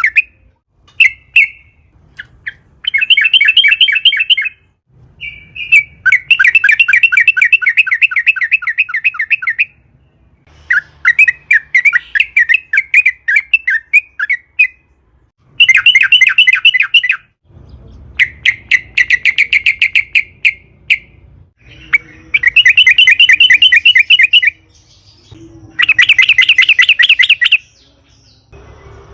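Yellow-vented bulbul (trucukan) singing in long, fast chattering phrases, each a rapid run of rising-and-falling notes lasting one to four seconds, repeated about seven times with short pauses between.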